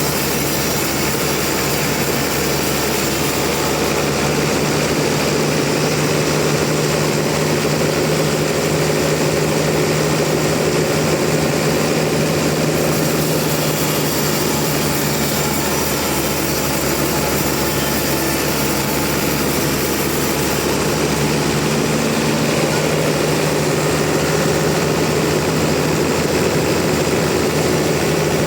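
Sawmill machinery running steadily through a log: a loud, continuous machine noise with a steady low hum.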